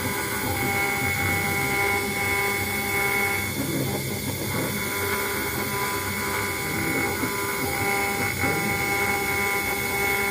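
CNC router spindle running at a steady high whine while its small cutter engraves a brass plate, with a rough cutting noise under the tone. The whine drops out briefly about four seconds in.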